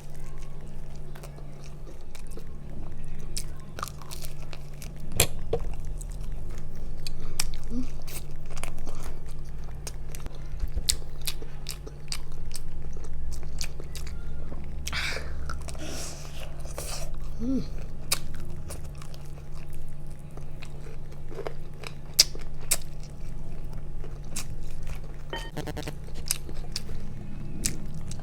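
Close-up chewing and biting of crispy fried chicken, with frequent sharp crunches from the skin, over a steady low hum.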